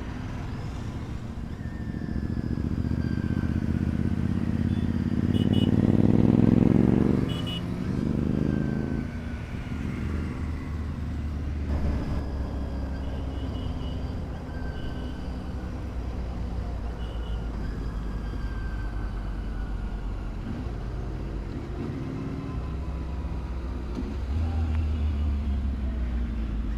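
Motorcycle engine revving up under acceleration, loudest about six to seven seconds in, then easing back to steady running with road noise. It swells again near the end.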